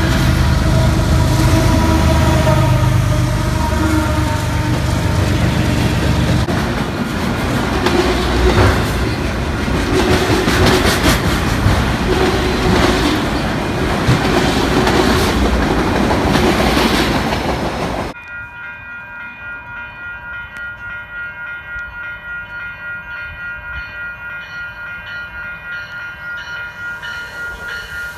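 Freight train of double-stack container cars and autorack cars rolling past close by: a loud, steady rumble with wheels clacking over the rail joints. After an abrupt cut about two-thirds of the way in, a level-crossing bell rings about twice a second for an approaching commuter train.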